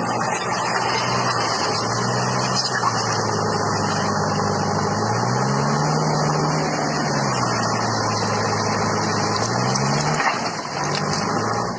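A construction machine's diesel engine running; it revs up about five seconds in, settles back a couple of seconds later, and rises again near the end.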